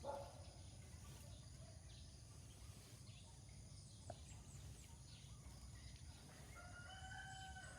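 Faint background with a low hum; near the end a rooster starts crowing, one long faint call.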